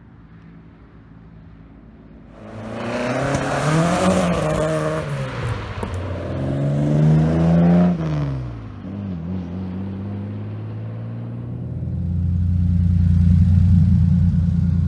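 A car engine revving and accelerating hard, its note climbing and dropping back through gear changes, with a sharp drop about eight seconds in. From about twelve seconds in, a deeper, steady engine rumble takes over.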